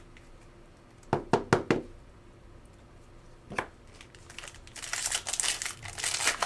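A few sharp clicks of card-handling gear, then the crinkling and tearing of a trading-card pack's wrapper being opened, growing louder near the end.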